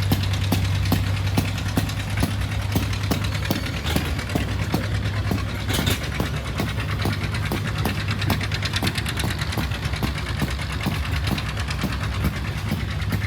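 Engine of vintage farm machinery running steadily, with a rapid regular knock of about four to five beats a second over a low steady hum.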